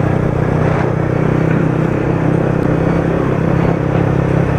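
Yamaha R15 V3's 155 cc single-cylinder engine running steadily as the bike is ridden, heard from on board with road noise. The engine note holds an even pitch throughout.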